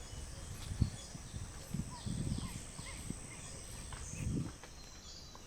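Outdoor nature ambience with scattered short bird chirps and quick falling whistle notes, a steady thin high tone, and irregular low rumbles underneath.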